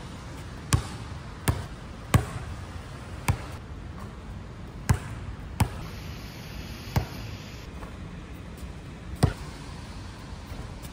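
Basketball bouncing on a hard court: about eight sharp thuds at uneven intervals, over a steady hiss of rain.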